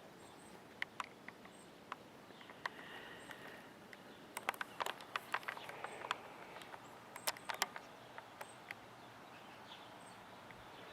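Quiet outdoor ambience with scattered small clicks and rustles, thickest in the middle, and faint high chirps.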